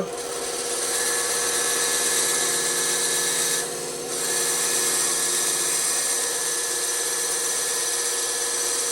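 Bandsaw running with its blade cutting through wood: a steady whirring hiss with a constant hum, dipping briefly a little under four seconds in.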